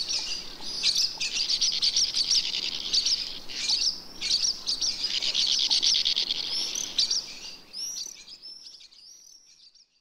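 Birds chirping and twittering in a dense, high chatter of quick notes, fading out over the last three seconds.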